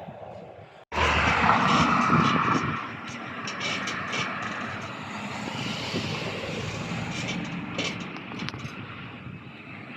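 A passing airplane's engines: a broad rushing noise that starts abruptly about a second in, loudest for the next two seconds, then steadier and somewhat quieter.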